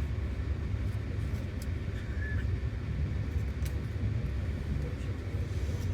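Passenger train carriage running, heard from inside: a steady low rumble with a few faint ticks.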